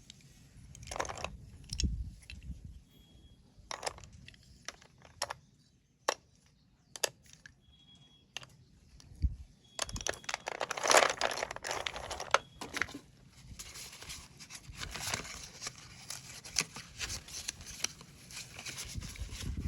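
A pack of slate pencils being handled and opened: scattered sharp clicks and taps for the first several seconds, then a busier stretch of crinkling and tearing from about ten seconds in.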